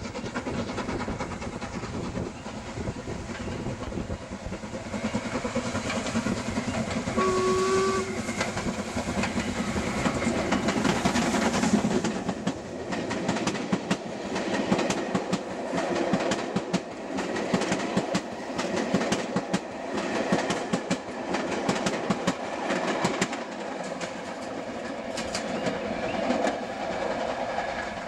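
Steam train running by, with heavy mechanical noise throughout. A short whistle tone sounds about seven seconds in, and from about twelve seconds on there is a rapid clatter of wheels over the rail joints.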